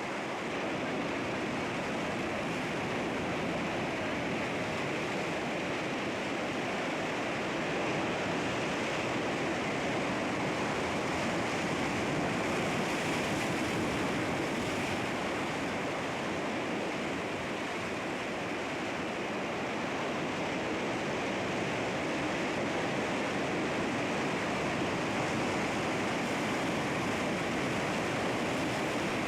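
Sea waves washing against rocks: a steady, unbroken rush of surf with only slight swells in loudness.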